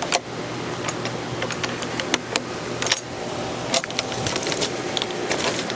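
Hurricane wind and rain noise over a low steady hum, broken by many irregular sharp clicks and ticks.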